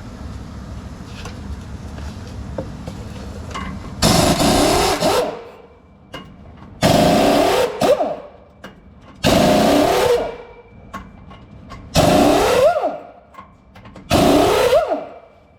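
Air impact wrench run in five bursts of about a second each, a couple of seconds apart, its pitch rising and falling within each burst, while taking down the truck's rear wheel hub. A steady low rumble fills the first four seconds.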